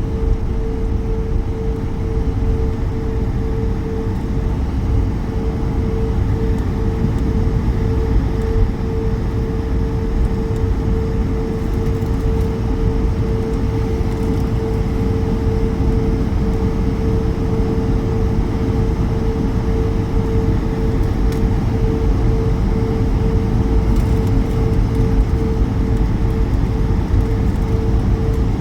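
Airbus A220 jet engines and airframe heard from inside the passenger cabin: a steady hum with one held tone over a heavy low rumble, with no rise or change.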